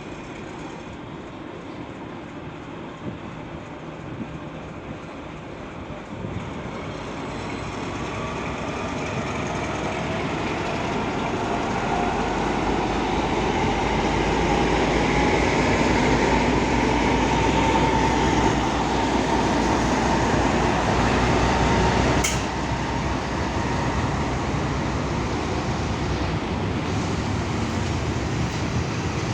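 A train approaching and passing close by: a rumble with gliding tones that grows steadily louder over the first twenty seconds. A sharp click comes about two-thirds of the way through, after which the sound is a little quieter and steady.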